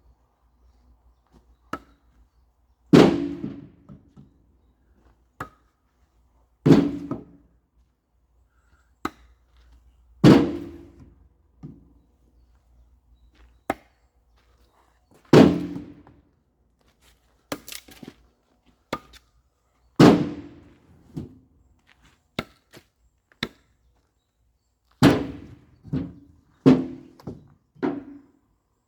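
Firewood logs being split by hand: heavy chopping strikes on wood every few seconds, each with a short ringing tail, and a quick run of four blows near the end, with lighter knocks of wood between.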